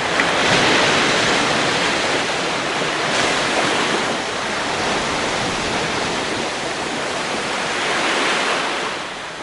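Sea waves washing onto a shore, a steady rush of surf that swells about half a second in and again near the end before easing off.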